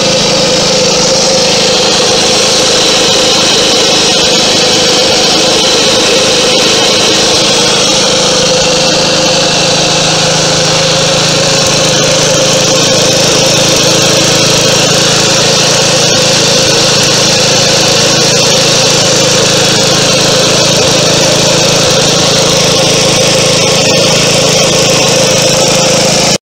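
Wisconsin W1-185 single-cylinder air-cooled engine on a Snapper mower, running loud and steady, then cutting off suddenly at the end.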